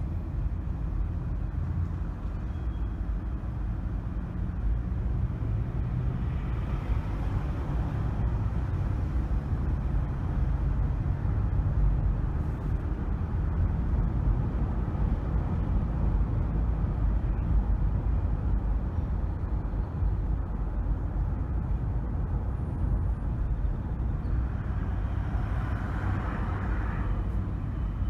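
A car driving: a steady low rumble of engine and road noise, with a brief swell of brighter hiss near the end.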